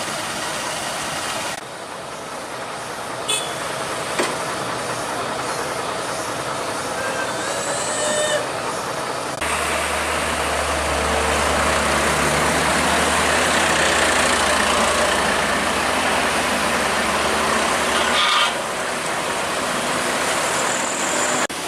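A heavy truck running, a steady rushing engine and road noise with a few brief squeaks about 7 to 8 seconds in. A louder low drone starts suddenly about nine seconds in and stops suddenly near eighteen seconds.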